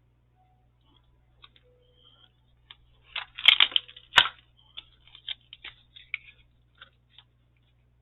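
Light clicks and paper rustling from craft supplies being handled on a tabletop, with a flurry of rustling about three seconds in and a sharp tap just after four seconds.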